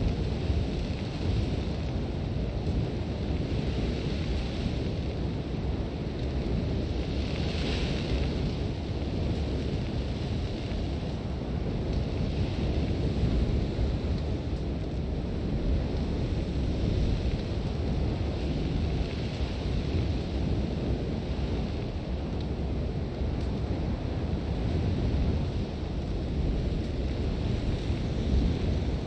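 Sandstorm wind blowing steadily, a deep rumble buffeting the microphone with a hiss of blown sand over it; the hiss swells briefly about eight seconds in.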